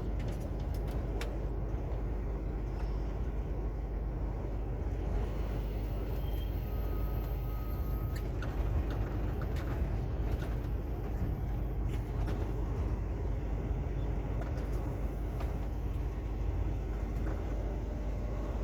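Heavy truck's diesel engine running steadily, heard from the cab as a low rumble, with a few scattered clicks and a brief faint beep about seven seconds in.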